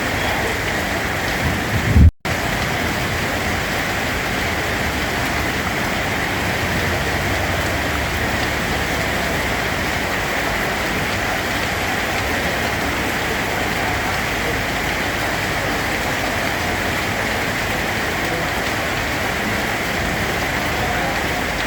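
Rain falling steadily, a dense even hiss. About two seconds in there is a brief low thump, then the sound cuts out for a split second before the rain resumes.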